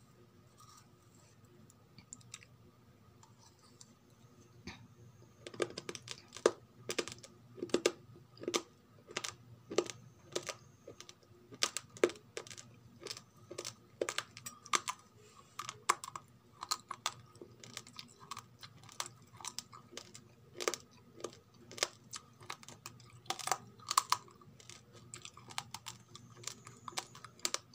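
Raw rice grains crunched between the teeth: rapid, irregular sharp cracks, several a second, starting about five seconds in after a few quiet seconds.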